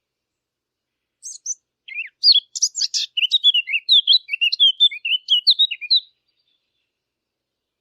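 Sylvia warbler (the 'fig bird') singing one rapid, varied warbling phrase of about five seconds, starting a little over a second in.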